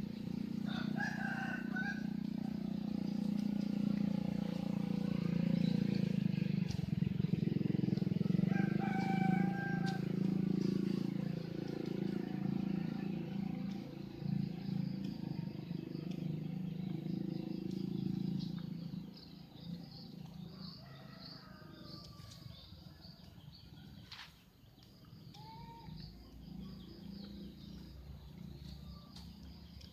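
Outdoor rural ambience: a low engine drone, likely a passing vehicle, runs for much of the stretch and fades out after about two-thirds. Chickens call twice over it, about a second in and again near nine seconds. Once the drone is gone, birds and insects chirp steadily.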